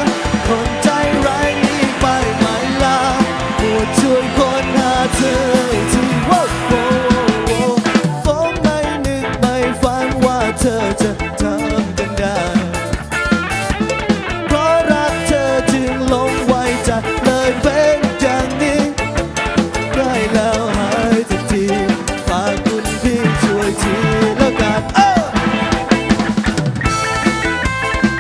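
A live band playing a mostly instrumental passage, with a drum kit keeping a steady beat under a wavering lead melody.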